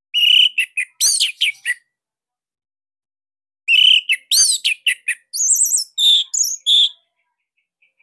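Orange-headed thrush (anis merah) singing: two loud phrases of quick, sharp whistled and chattering notes with rising sweeps, the second beginning after a pause of about two seconds.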